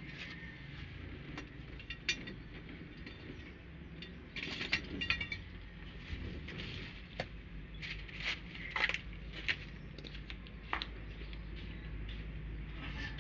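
Metal hand tools at work on an engine: scattered sharp metal clicks and clinks, with a short run of rapid clicks about four and a half seconds in, over a low steady hum.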